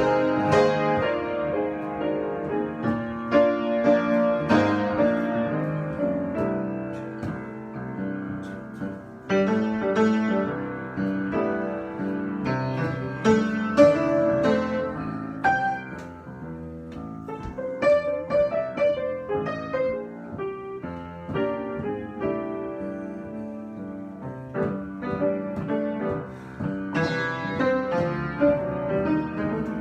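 Piano improvisation: notes and chords struck and left to ring, some passages busier and some sparser.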